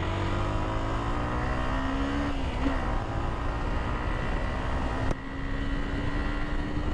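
Yamaha R15 motorcycle's single-cylinder engine pulling in low gear. Its pitch climbs gently, drops back about two and a half seconds in, then holds steady, with a brief dip in level about five seconds in.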